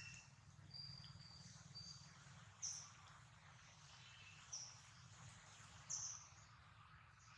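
Near silence: faint outdoor background with a low steady hum and three short, high bird chirps spread through it.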